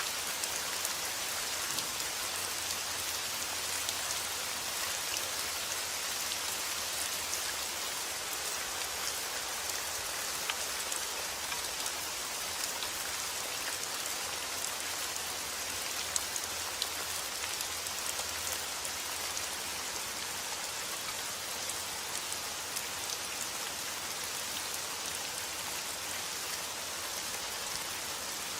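Steady rainfall, an even hiss with scattered drop ticks.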